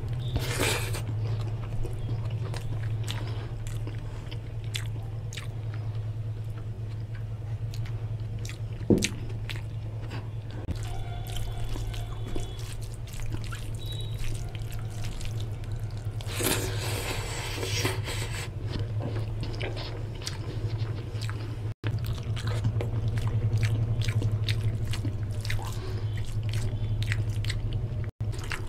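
Close-miked wet chewing and smacking mouth sounds of a person eating oily mutton curry and rice by hand, with squishy sounds of fingers working rice into the curry. A steady low hum runs underneath, and a single sharp knock comes about nine seconds in.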